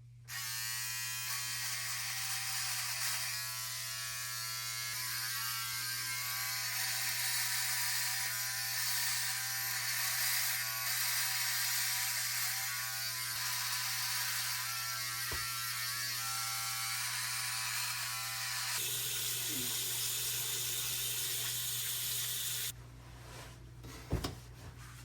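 Electric razor buzzing steadily as it shaves off sideburns and a mustache. It switches on right at the start and cuts off near the end.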